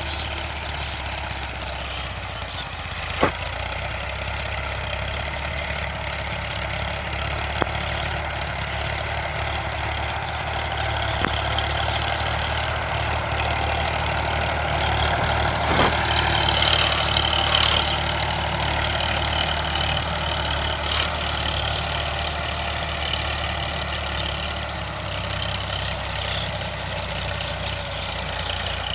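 Sonalika DI 745 tractor's diesel engine running steadily, with a sharp knock about three seconds in and a lighter one a few seconds later.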